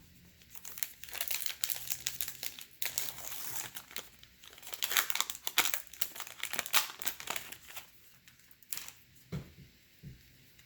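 A foil baseball card pack being torn open and crinkled by hand, a dense run of sharp crackling and tearing that thins out near the end.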